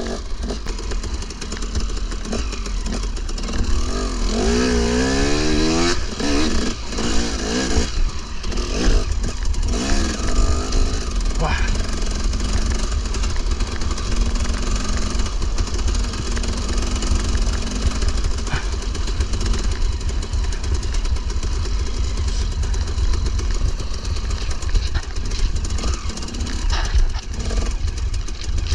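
KTM 300 two-stroke dirt bike engine running while riding, its pitch rising and falling with the throttle, especially around four to six seconds in, over a heavy low rumble.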